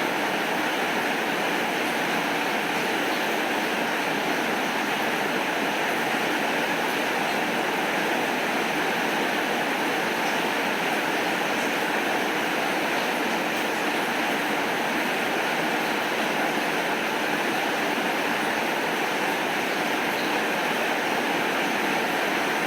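Steady rain falling, an even unbroken hiss without thunder, with a few faint ticks in it.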